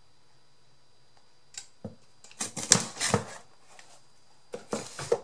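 Heavy-duty Big Bite hole punch biting through cardboard: a run of sharp clicks and crunches about two seconds in, then a shorter cluster near the end.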